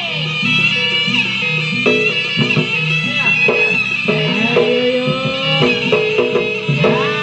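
Jaranan accompaniment music: a shrill reed shawm plays a bending, wavering melody over repeating gong-chime and drum patterns.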